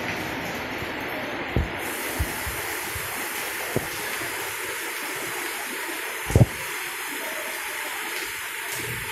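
Heavy rain falling steadily, an even hiss, with a few short low thumps, the loudest about six seconds in.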